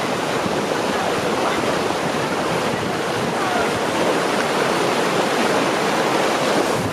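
Steady rush of flowing water, as of a mountain stream or small cascade, holding an even level throughout.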